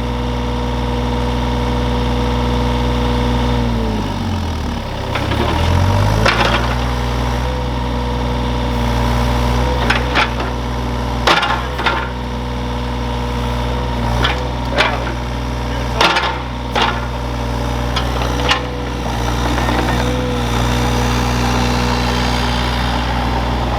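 Excavator engine running steadily, its pitch dropping under load about four seconds in and then recovering. A series of sharp knocks and cracks from the digging is heard through the middle of the stretch.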